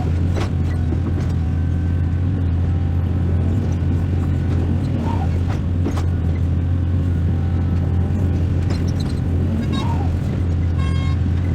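Heavy excavator's diesel engine running steadily, a loud low drone that holds an even speed throughout.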